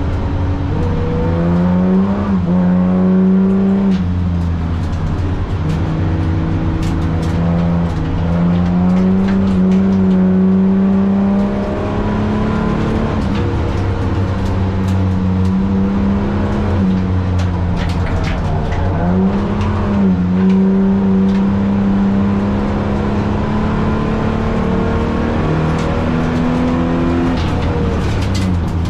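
Holden VT Commodore's 3.8-litre V6 driven hard on a sprint lap. The engine note holds, then drops and climbs again several times as the driver lifts, shifts and gets back on the throttle, with scattered short clicks and knocks over it.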